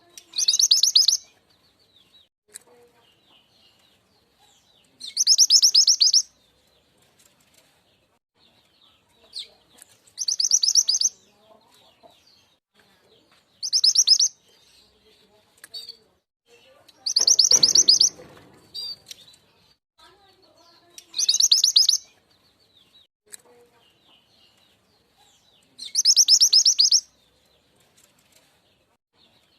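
Mountain mantenan (truntung weru) bird calling, as on a bird-trapping lure recording: a high, rapid buzzy trill lasting about a second, repeated seven times at intervals of four to five seconds, with faint short chirps between.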